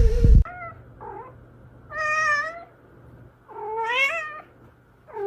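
A cat meowing: a faint short meow, then three loud drawn-out meows about a second and a half apart, the second rising in pitch. Before them a loud rushing noise cuts off suddenly about half a second in.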